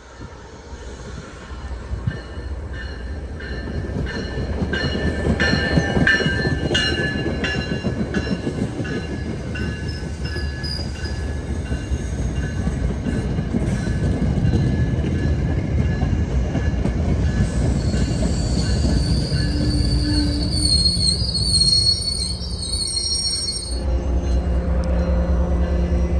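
MBTA commuter rail train pulling into the station. The rumble of its wheels grows louder as it nears and passes, and high wheel squeal comes in during the last few seconds as it slows. A steady low hum takes over near the end.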